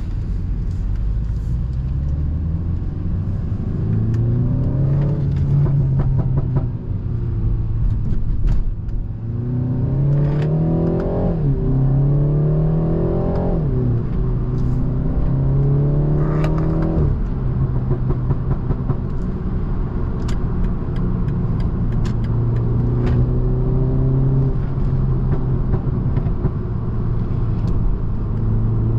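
BMW 330i's turbocharged four-cylinder engine under acceleration: its note climbs in several pulls, dropping sharply at each upshift, between stretches of steady cruising.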